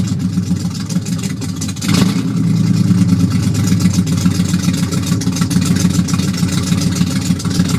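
Ford 302 small-block V8 running through side-exit exhaust pipes, with a steady, uneven idle. About two seconds in there is a brief surge in level. The engine is warming up after a cold start in freezing weather.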